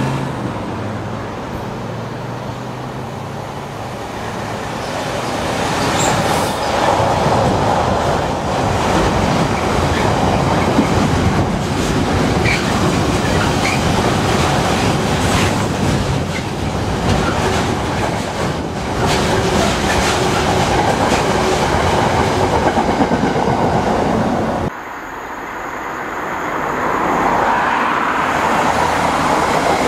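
Diesel-hauled freight trains passing close by: a steady loud rumble of wagons with wheels clicking over rail joints. About twenty-five seconds in, the sound cuts abruptly to a quieter approaching train that grows louder as the diesel locomotive nears.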